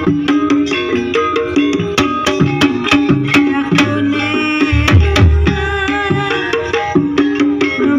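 Javanese gamelan music accompanying an ebeg dance: the kendang hand drums play quick strokes, some of them deep strokes that bend in pitch, over ringing metallophone notes.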